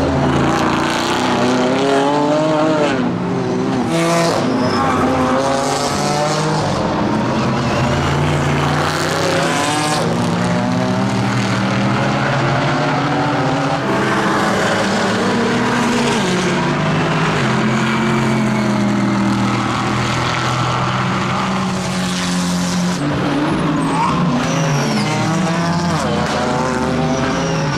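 Chevrolet Camaro GT4.R race car V8 engine running at racing speed, its pitch repeatedly climbing and dropping back as it revs through the gears.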